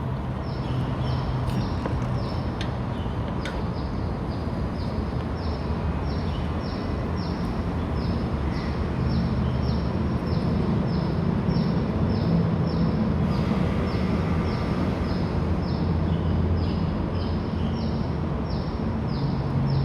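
A short high chirp, falling in pitch, repeated about twice a second from a chirping animal, over a steady low background hum.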